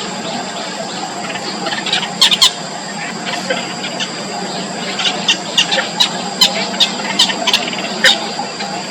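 Nestling birds' short, sharp begging cheeps: a brief cluster about two seconds in, then a run of them, a couple a second, from about five to eight seconds, over a steady hiss.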